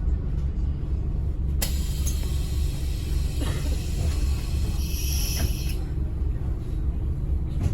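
Interior rumble of a Scania N270UD OmniCity bus's diesel engine running on the move. A hiss starts with a click about one and a half seconds in and lasts about four seconds.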